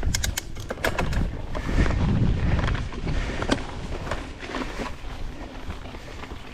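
Mountain bike being ridden down a dirt trail, with a quick cluster of sharp rattling clicks in the first second and scattered clicks after it. A low wind rumble on the microphone is strongest about two seconds in.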